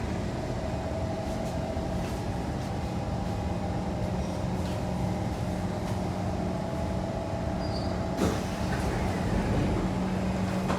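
Kawasaki C151 metro train standing at an underground platform with its doors open, its equipment giving a steady hum. There is a single sharp knock about eight seconds in, and the low rumble gets a little louder after it.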